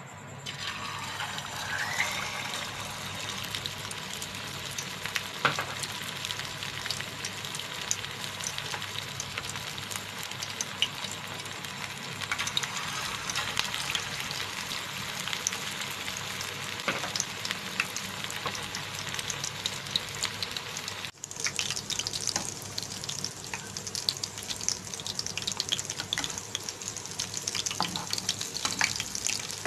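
Beef seekh kebabs frying in a pan of hot oil preheated on a medium flame: a steady sizzle with many fine crackling pops, which swells just after the start as the kebab goes into the oil. About two-thirds through there is a brief break, after which the crackling is sharper and denser.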